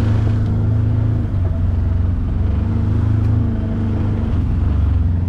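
Side-by-side UTV engine running as it drives off, a steady low hum that eases off about a second in and picks up again.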